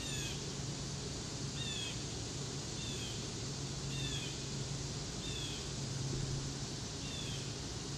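Outdoor ambience: a bird repeats a short, downward-sliding call six times, one to two seconds apart, over a steady low hum and a soft background hiss.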